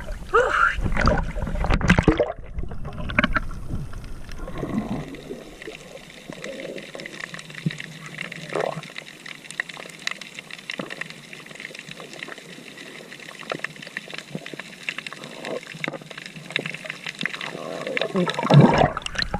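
Water trickling and splashing steadily, with small sloshes and splashes scattered through it. Indistinct voices are heard over it in the first few seconds.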